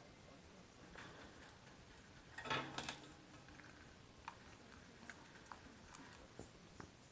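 A pet parakeet's faint, irregular small taps and clicks, with one short, louder scuffling sound about two and a half seconds in.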